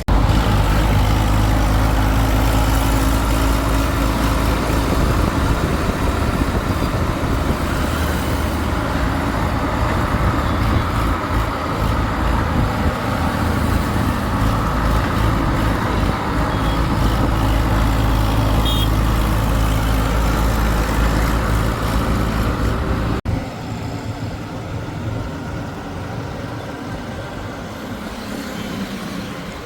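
Heavy diesel engine running steadily under load, with a strong low note. About three-quarters of the way through, the sound cuts off abruptly and a quieter engine sound continues.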